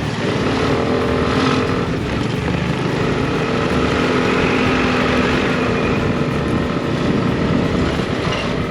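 Aprilia scooter engine running steadily while riding, with road and wind noise.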